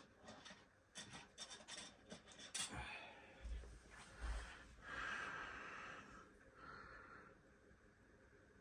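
Small parts being handled: a quick run of light clicks and taps, then soft rubbing and rustling.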